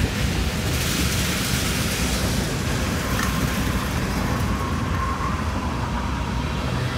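Freight train cars rolling past below, a steady rumble of wheels on rail, with a faint thin squeal in the middle.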